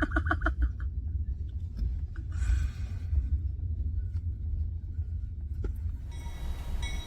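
Train passing close by, heard from inside a parked car: a steady low rumble, with a high steady tone coming in near the end.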